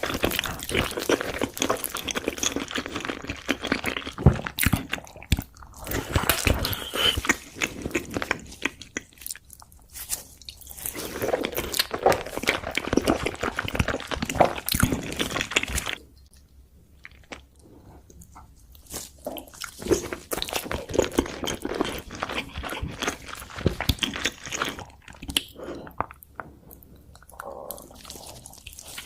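Close-miked eating of sushi: wet chewing and crunching in quick clicks, going quieter for a few seconds a little past halfway through.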